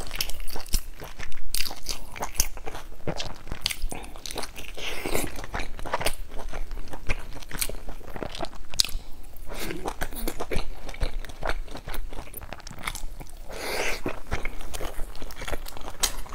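Close-miked chewing of soft steamed buns: irregular wet mouth clicks and smacks from a person eating with a full mouth.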